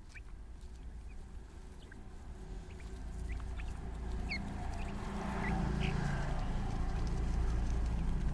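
Birds giving short, scattered high chirps over a low rumble that grows louder from about halfway through.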